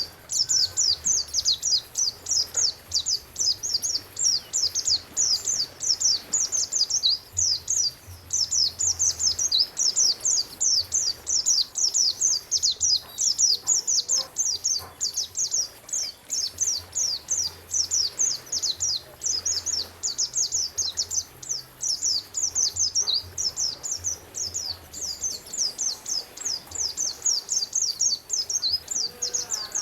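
Songbird chirping in a rapid, unbroken series of short, high, downward-sliding notes, several a second.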